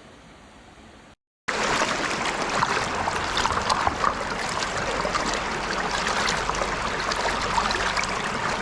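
A faint hiss for about a second, then after a brief silence a mountain stream's water rushing and babbling close by, loud and steady.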